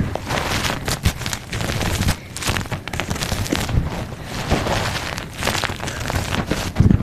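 Gym chalk being crushed close to the microphone: dense, irregular crunching and crackling, with one louder crunch near the end.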